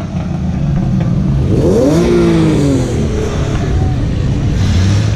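Car engine running with a heavy low rumble, revved once about two seconds in, the pitch climbing and then dropping back.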